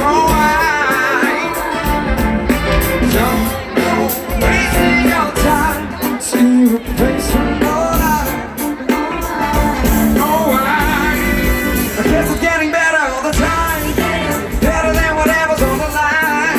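Live pop-rock band playing a song, with a voice singing wordless or unclear lines over the band.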